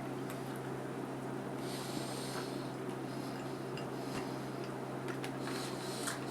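A person chewing a bite of soft, chewy cookie, with audible breaths through the nose and small mouth clicks, over a steady low electrical hum.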